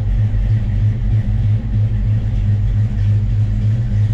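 Fox-body Mustang's V8 idling with a lumpy, uneven pulse from a big cam that is hitting well.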